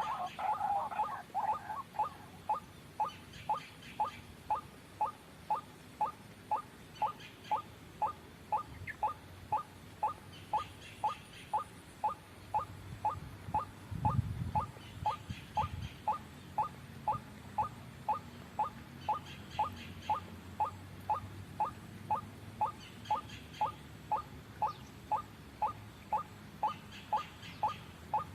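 White-breasted waterhen giving its monotonous repeated call, short even notes at about two a second without a break. A brief low rumble about halfway through.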